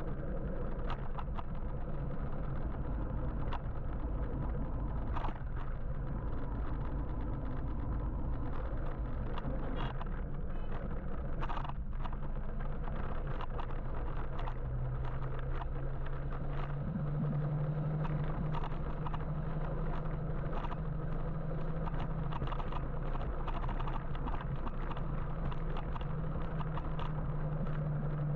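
Wind rushing over the microphone of a moving electric motorbike in city traffic, with a low steady hum that grows stronger about halfway through.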